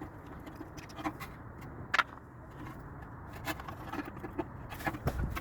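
Scattered metal clicks and light scraping of hand tools at work on a car, with one sharp click about two seconds in and a cluster of clicks and a dull knock near the end.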